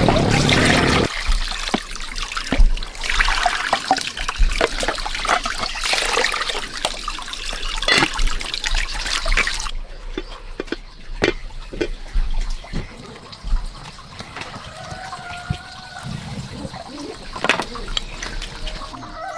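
Water splashing and pouring, with scattered knocks, for about ten seconds; it then drops to quieter trickling and clicks.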